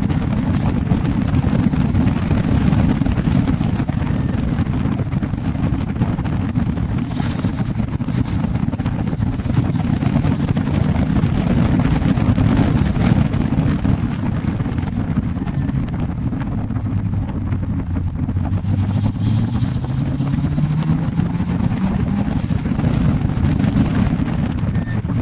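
Toyota Celica GT-Four ST165's turbocharged four-cylinder engine running hard on track, its pitch climbing steadily in the second half, under heavy wind buffeting on the microphone.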